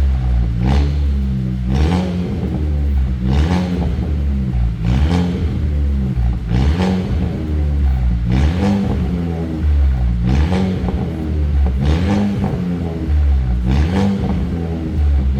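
Renault Samsung XM3's engine revved repeatedly through a custom variable-valve exhaust, a quick rev blip rising and falling about every one and a half to two seconds over a steady low exhaust note.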